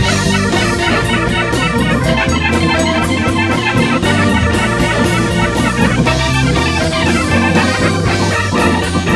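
Live soul band playing an instrumental passage, with organ to the fore over a steady beat.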